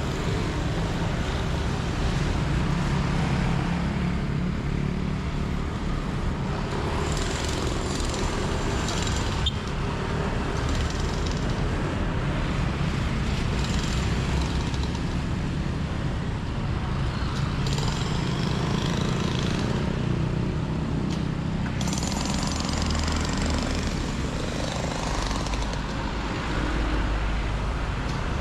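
Motor vehicle engines running, a steady low rumble with hiss above it.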